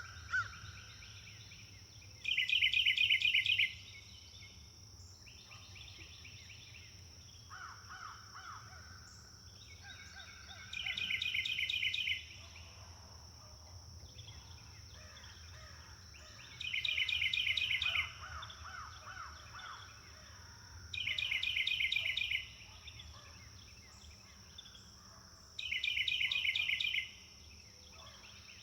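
Wild birds singing: a loud, rapid trill repeats five times, each lasting over a second, with quieter trilled calls between them. A steady high-pitched tone runs underneath.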